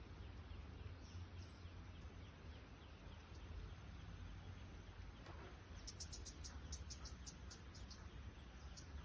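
Faint steady background hum with a rapid string of short, high chirps a little past the middle, about eight a second for just over a second, and a few single chirps near the end.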